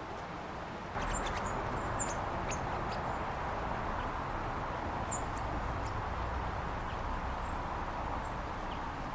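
Small songbirds giving short, high chirps now and then over a steady background hiss that gets louder about a second in.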